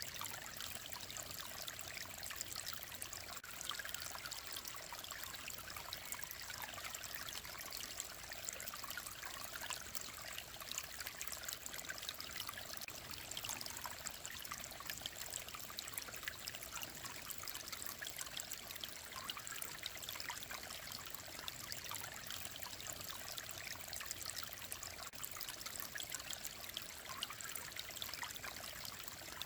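Mountain stream flowing steadily, an even trickling and splashing of clear water.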